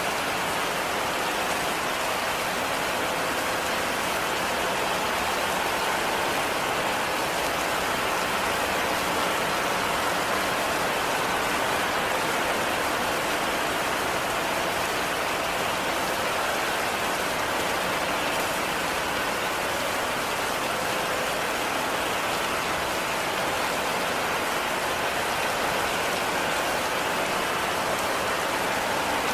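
Heavy rain falling steadily on a cabin roof: a dense, even hiss with no individual events or changes.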